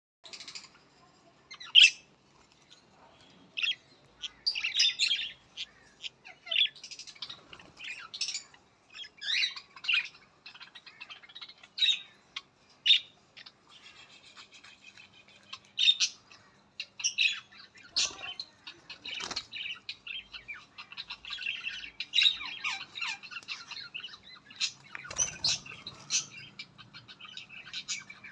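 Budgerigars chirping and squawking: short, sharp calls at irregular intervals, turning into denser, continuous warbling chatter in the last third.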